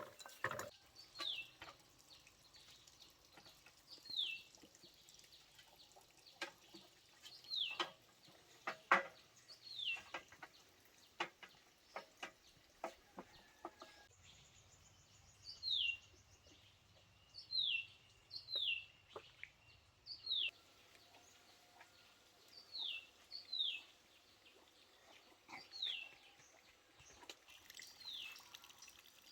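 A bird calling over and over, each call a short high chirp that slides downward, about one every one to two seconds. Scattered light clicks and knocks in the first half.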